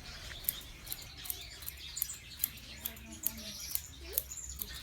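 Finches chirping in the background, with scattered short, sharp high ticks.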